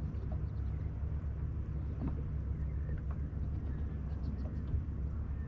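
Steady low rumble of wind buffeting the microphone, with a couple of faint clicks about two and three seconds in.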